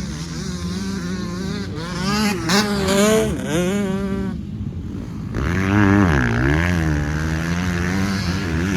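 Dirt bike engine revving hard on a motocross track, its pitch climbing and falling with the throttle. The throttle is shut off briefly around four and a half seconds in, then opened again.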